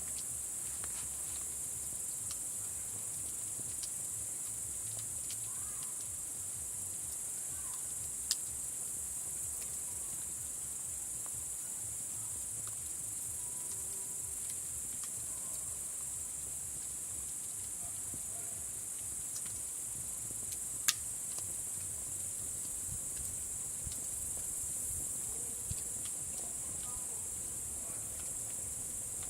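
A steady, high-pitched insect chorus, with scattered faint crackles from a campfire. Two sharp pops from the fire stand out, one about a third of the way in and a louder one about two-thirds in.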